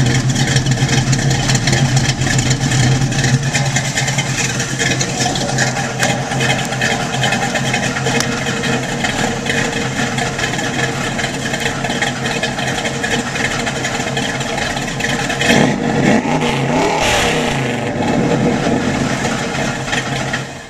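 1972 Chevy C10 pickup's cammed engine running through its H-pipe exhaust, with a steady low rumble. About three-quarters of the way through, the pitch rises and falls in a brief rev, and the sound cuts off suddenly at the end.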